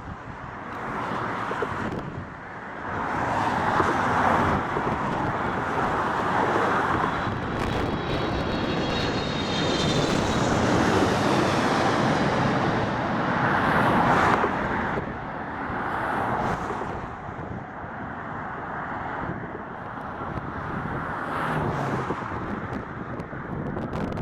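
Jet aircraft passing on the runway, its engine noise swelling, holding for several seconds with a thin high whine in the middle, then fading. Wind buffets the microphone.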